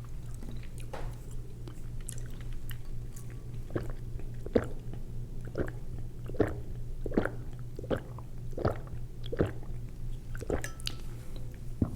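A person chewing a mouthful of Rice-A-Roni close to the microphone, with soft wet mouth clicks about every three-quarters of a second, over a steady low hum.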